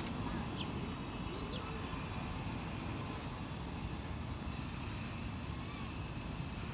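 Steady low outdoor rumble, with two short high-pitched arching chirps about half a second and a second and a half in.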